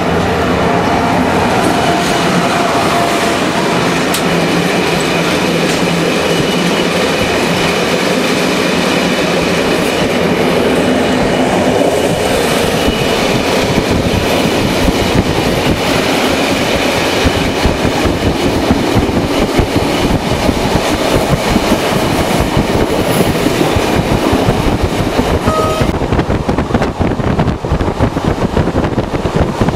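Intercity passenger train running, heard from on board: a steady rumble of wheels on rail, with the rattling clatter growing denser and busier from about halfway through.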